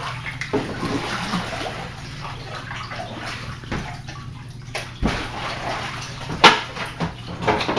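Kayak paddle sloshing and splashing through shallow floodwater in a basement, with two sharp knocks in the second half.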